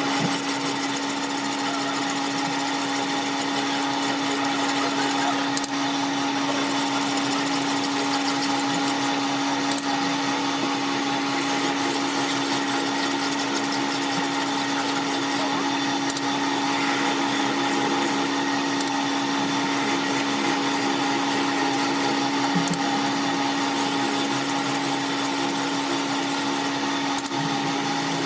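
Workshop machine motor running steadily with a constant hum and a rough mechanical noise over it.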